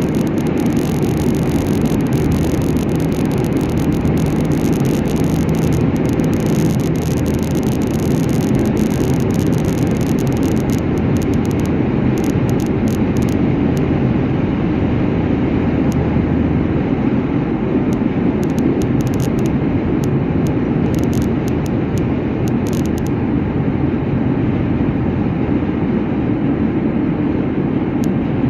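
A car driving at a steady speed, with a constant drone of engine and tyre road noise.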